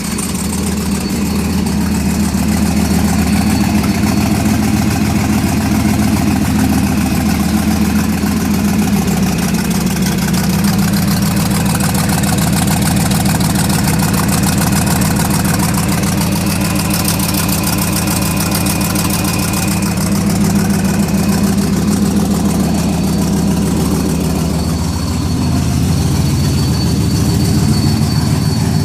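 Turbocharged 4.8-litre LS V8 in a Silverado idling steadily on its first start after a new camshaft was installed.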